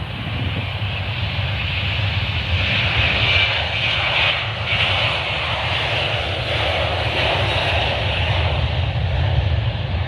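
Boeing 737-800's CFM56-7B turbofan jet engines at takeoff thrust: a loud, steady jet noise with a deep rumble underneath, swelling over the first couple of seconds and then holding.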